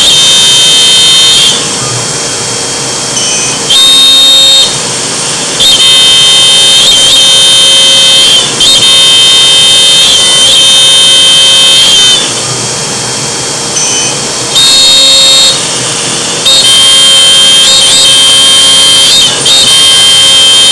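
Laguna CNC router spindle cutting, a loud high steady whine that swells in stretches of one to four seconds and drops back briefly between them as the bit moves in and out of the cut.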